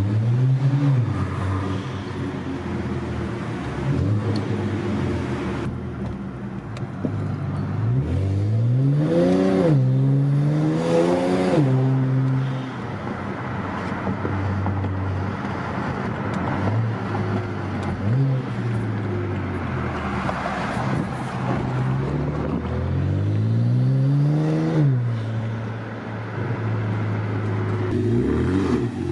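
2009 BMW 335i's twin-turbo N54 straight-six running through a straight-piped exhaust, with an X pipe in place of the resonator and the muffler deleted. It holds a steady low note, then revs up and falls back several times, with two long climbs near the middle and shorter ones later.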